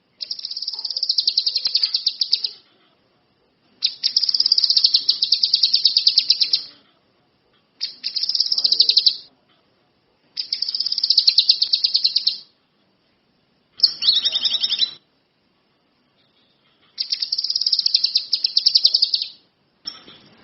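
A songbird sold in the Indonesian bird trade as 'kinoi' singing in full voice: bouts of fast, evenly pulsed high trills, each one to three seconds long, about six times with short pauses between.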